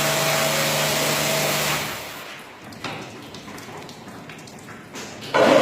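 Carpet-washing machine running with a steady noisy hum, dropping away about two seconds in to a quieter stretch with a few clicks, then starting up again loudly near the end.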